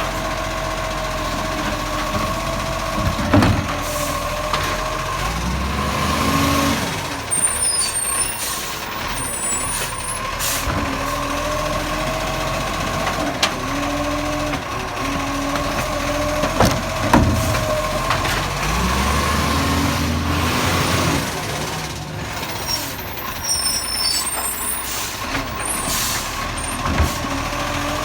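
Recycling garbage truck with a Bucher body at work: the engine runs under a steady whine and revs up twice, each rise followed by clattering and rattling, with sharp knocks and air-brake hisses between.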